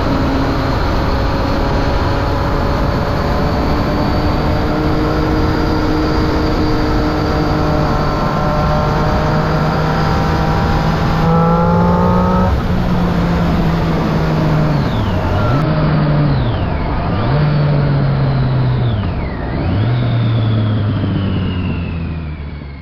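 Triumph Street Triple 675's three-cylinder engine through a Remus Hypercone exhaust with dB killer, running under way with its note slowly climbing. Later the revs dip sharply and pick up again three times, and the note falls away near the end, over a rush of wind noise.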